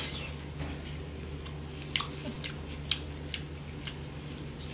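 Close-miked mouth sounds of eating smoked pork by hand. A brief wet noise as the fingers go to the mouth at the start is followed by chewing with a handful of sharp wet clicks and lip smacks, bunched about two to three and a half seconds in, plus one near the end, over a steady low hum.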